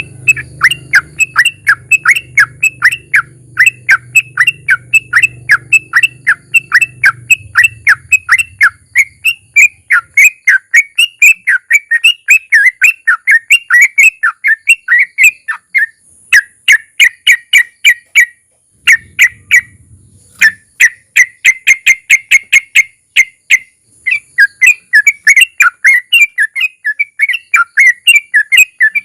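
Yellow-vented bulbul (trucukan) singing its 'ropel' song: a long, fast string of short, loud chattering notes, several a second, broken by a few brief pauses.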